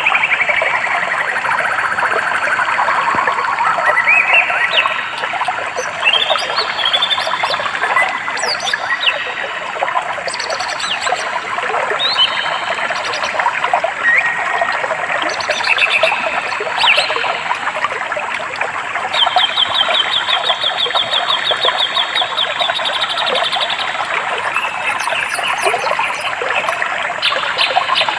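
Many birds chirping and calling over a steady rush of water. In the middle comes a rapid trill of repeated high notes lasting several seconds.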